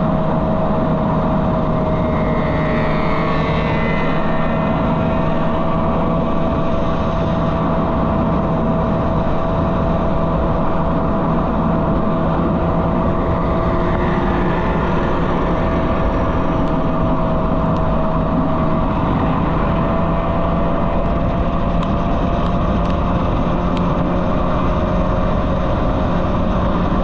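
Motorcycle engines running: one engine holds a steady, unchanging tone throughout, with brief higher whines of other bikes rising and falling about three seconds in and again around fourteen seconds.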